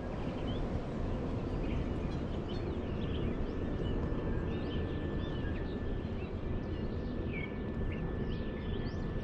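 Many small birds chirping over a steady low rumble of outdoor noise, with a faint steady high tone underneath.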